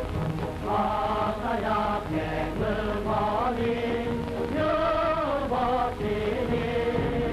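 Voices singing a slow song in unison, with long held notes that glide from one pitch to the next, over a steady low hum.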